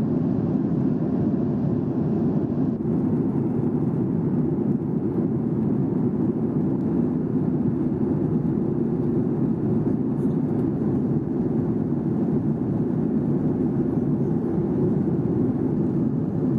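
Boeing 737-800 heard from inside the passenger cabin in flight: a steady, low rushing noise of engines and airflow, even in level throughout.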